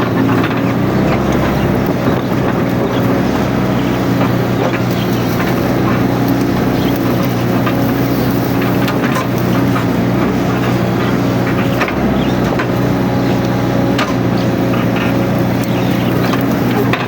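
Mini excavator's diesel engine running steadily, with scattered short clicks and knocks over it.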